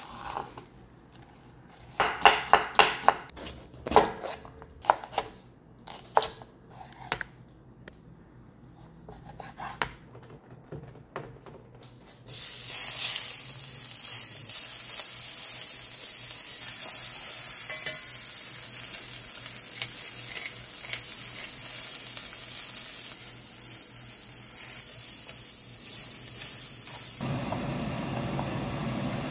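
A knife cuts through a fried corn dog on a wooden cutting board: a run of sharp knocks in the first several seconds. About twelve seconds in, strips of hot dog sausage start sizzling in a hot pan with a steady hiss. Near the end, water pours into a pot.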